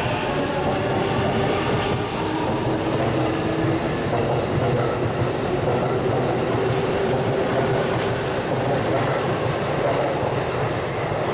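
Electric train running by on curved track: a steady, loud rumble of wheels on rail with faint steady whining tones over it.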